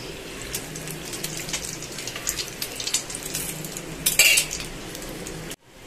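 Tikkis dipped in beaten egg sizzling and crackling in hot ghee on a tawa, with a metal spoon clinking against the pan as ghee is spooned over them. The loudest clatter comes about four seconds in. The sound drops out briefly near the end, then the sizzle resumes more quietly.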